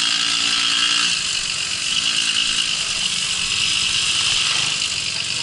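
Babetta moped's small two-stroke engine running under way, with a steady hiss; the engine pitch rises and falls a couple of times.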